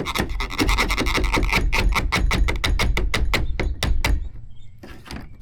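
Angle grinder fouled with melted plastic, clattering as it runs: a fast, even series of sharp knocks, about seven a second, over a low rumble, stopping about four seconds in.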